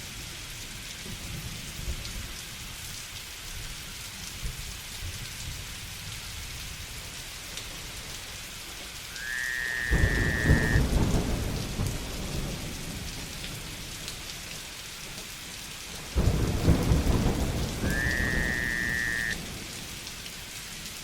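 Steady rain with two thunder rumbles, each starting suddenly, about ten and sixteen seconds in, and lasting a few seconds. Just before each rumble comes a short whistle that rises and then holds.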